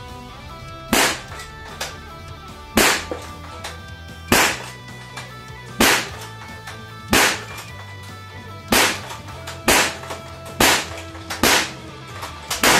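Walther Reign .25-calibre PCP air rifle fired shot after shot as a magazine is emptied: about ten sharp cracks, one to two seconds apart, over guitar music.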